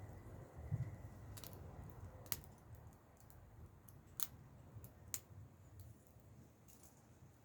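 Wood fire crackling: sparse, irregular sharp pops and snaps, about six over several seconds, over a faint low rumble.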